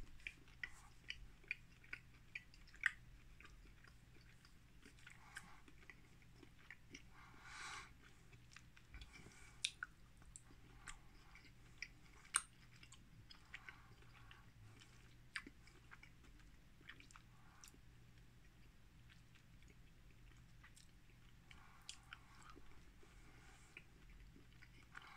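Faint close-up chewing of a milk chocolate bar with crisp pieces in it. Small crunching clicks come thick in the first three seconds, then scattered through the rest.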